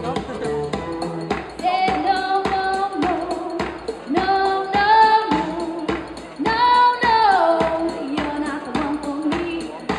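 A woman singing held notes over a backing band with a steady beat, with a falling slide about seven seconds in.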